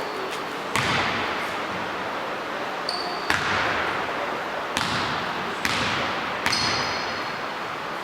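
A basketball bouncing on a gym's hardwood court, about five irregularly spaced bounces that echo around the hall, with a couple of short sneaker squeaks.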